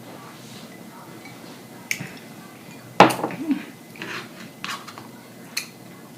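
Tableware clinking and knocking during a meal. There are a few short sharp clicks, the loudest a knock about three seconds in with a brief ring, then smaller clicks.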